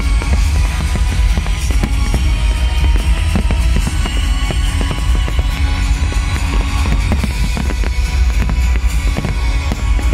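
Loud show music with heavy bass accompanying a fireworks display, with firework bangs and crackling going off throughout.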